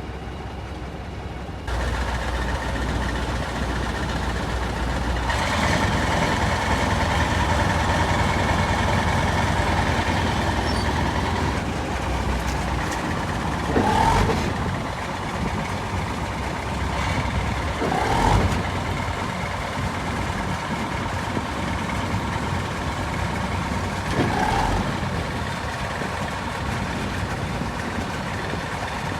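An engine starts about two seconds in and runs steadily, getting louder about five seconds in. Several short, louder rising sounds stand out over it, a few seconds apart.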